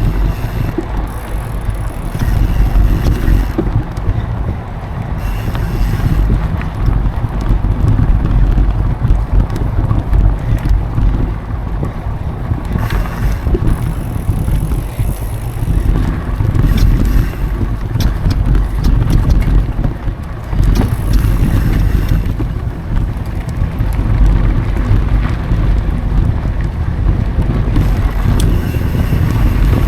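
Mountain bike rolling fast over dry dirt singletrack, with wind buffeting the action camera's microphone as a steady low rumble. Tyre noise runs under it, and scattered clicks and rattles come from the bike.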